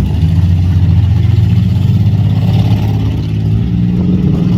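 Demolition derby car engines running loud, with the engine note rising and falling as they rev.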